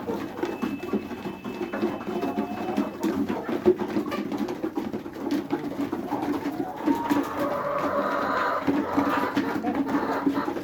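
A flock of chickens (desi, Rhode Island Red, Black Australorp and Vanaraja hens) clucking continuously in low murmurs, with a longer, higher call about seven to nine seconds in.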